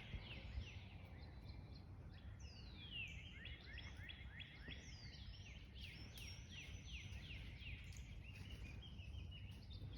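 A songbird singing faintly: a run of quick, high down-slurred notes starting about two and a half seconds in and fading out around eight seconds, over a steady low rumble.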